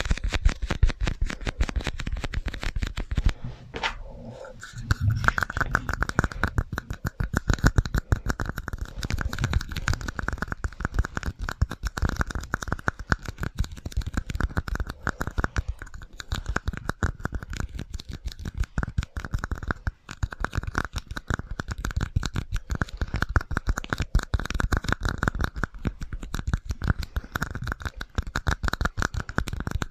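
Rapid, continuous tapping and scratching trigger sounds on handled objects, with a short pause about four seconds in.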